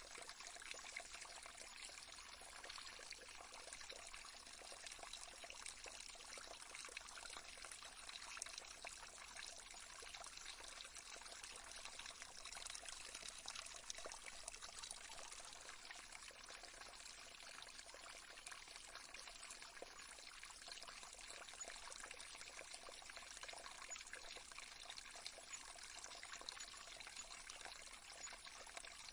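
Faint, steady trickling water, a soft stream sound used as a sleep-aid background.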